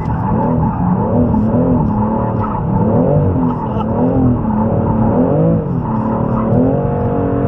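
Car engine revving up and down over and over, its pitch rising and falling every second or so as the car is driven hard around a track.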